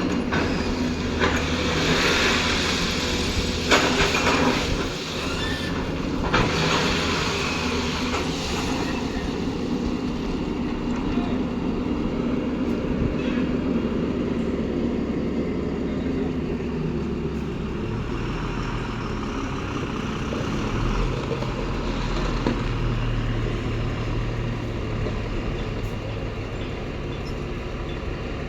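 Diesel engine of a JCB loader running steadily while crushed stone ballast is poured into a truck bed, a rattling rush with a few sharp knocks in the first several seconds. The engine carries on alone afterwards, its note shifting now and then.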